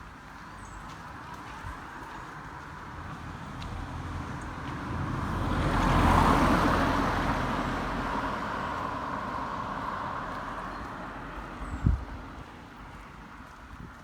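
A car passing on the road: its tyre and engine noise swells to a peak about six seconds in, then fades away slowly. A short thump near the end.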